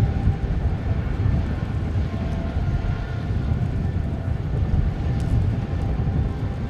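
Kawasaki EC-1 electronic-warfare jet's twin turbofan engines running during its landing: a steady low rumble with a faint whine above it.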